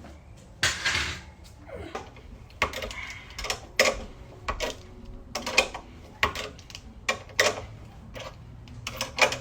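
Irregular metal clicks and clanks, about one or two a second, of a car's factory jack being handled and set in place.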